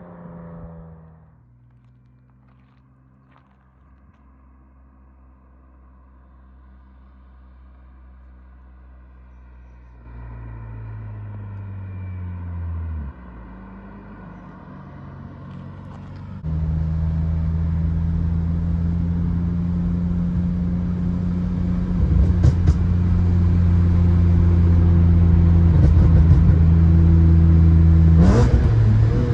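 BMW E46 M3's S54 straight-six running through aftermarket headers and exhaust at a steady engine speed. It is quiet at first and grows louder about ten seconds in. The pitch drops off a few seconds later, then the note jumps suddenly to a loud, steady drone at constant pitch for most of the second half.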